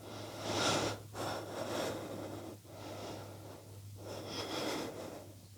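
A person breathing audibly, slow breaths in and out about four times, the steady breathing of someone holding a yoga pose, over a faint steady low hum.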